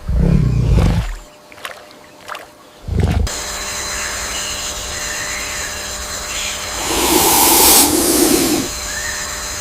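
Two short, low animal growls with a couple of clicks between. Then an abrupt change to steady rainforest ambience: a hiss with high, steady insect tones, swelling louder for a second or so near the end.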